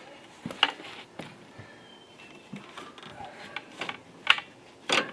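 Hand tools clicking and clinking against metal parts during a repair: irregular sharp clicks, some with a brief metallic ring. The loudest come about half a second in and just past four seconds.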